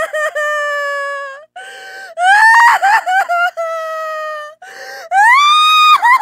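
A series of loud, high-pitched wailing cries, each gliding up and then holding one pitch for about a second before breaking off.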